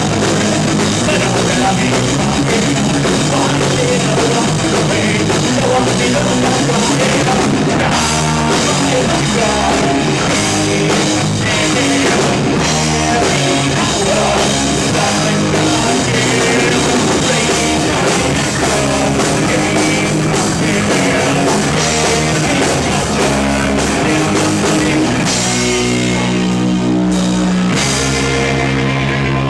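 Loud live rock music: a band with drum kit and electric guitar playing without a break.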